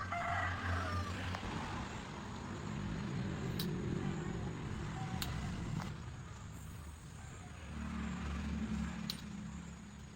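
An engine running unevenly, with a few sharp clicks over it.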